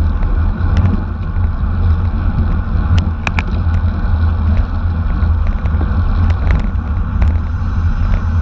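Wind buffeting the microphone: a loud, steady low rumble, with scattered sharp clicks and ticks over it.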